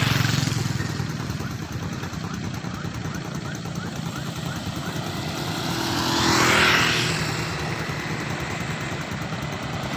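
Road traffic: an engine running at the start fades off, then a vehicle passes, its noise swelling to a peak about two-thirds of the way through and falling away again.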